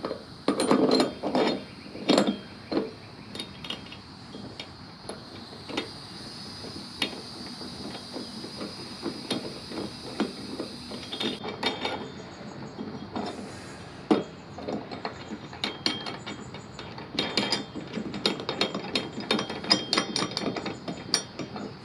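Socket ratchet wrench clicking in rapid runs as a nut is run onto a bolt, busy at the start and again in the last several seconds, with sparser clicks in between.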